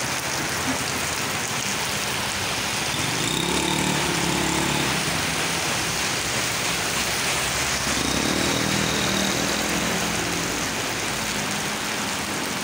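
Heavy rain falling steadily, with two motor vehicles passing along the flooded street, one about three seconds in and another about eight seconds in, their engines rising above the rain and fading.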